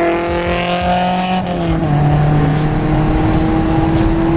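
Honda S2000's four-cylinder engine pulling hard at full throttle: its pitch climbs, drops sharply at an upshift about a second and a half in, then climbs again in the next gear.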